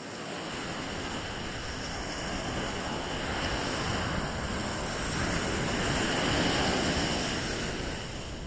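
An airplane descending to land passes over, its engine noise rushing with a high whine and growing louder to a peak about six seconds in, then starting to fade.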